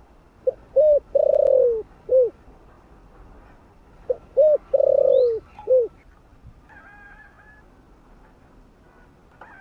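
Spotted dove cooing: two phrases about three and a half seconds apart. Each phrase has a short note, a quick double note, a long note that falls in pitch, and a short closing note.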